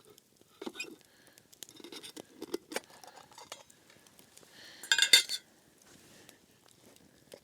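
Metal camp cooking pot and utensils clinking and scraping as a pot of chicken and rice is checked, with a louder ringing clatter of metal about five seconds in.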